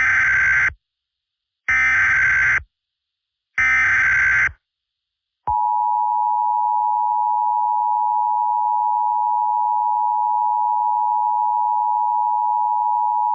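Emergency Alert System tones: three short, about one-second bursts of the SAME header data signal, about two seconds apart, followed by the long, steady two-tone EAS attention signal, which starts about five and a half seconds in and holds unchanged for about eight seconds. This sequence marks the start of an emergency broadcast alert.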